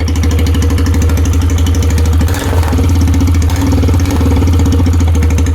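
Royal Enfield Himalayan single-cylinder engine idling through an aftermarket performance exhaust, a loud, steady, even beat that goes briefly uneven about two and a half seconds in.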